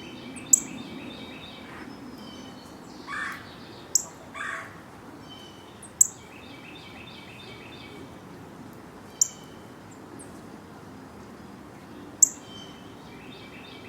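Backyard birds calling: five sharp, high, falling chip notes a few seconds apart stand out over quicker repeated chirping and trilling, with two short harsh calls about 3 and 4.5 seconds in.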